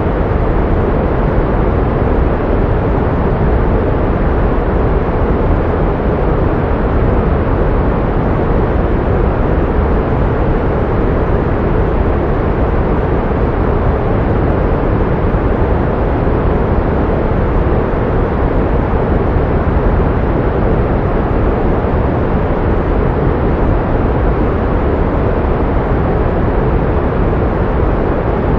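Steady pink noise: an even, unchanging hiss weighted toward the low end, with the high end rolled off.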